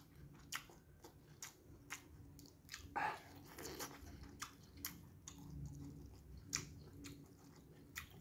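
Close-miked mouth sounds of a man chewing a mouthful of rice and balado egg: soft, wet smacks and clicks at irregular intervals, with one louder mouth sound about three seconds in.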